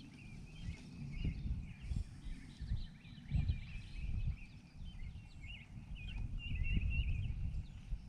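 Birds chirping over an uneven low rumble with scattered soft knocks, on an open boat on the water.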